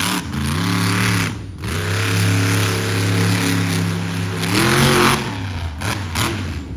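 Monster truck engine revving hard: it climbs, holds high revs for a few seconds, surges once more about five seconds in, then drops back.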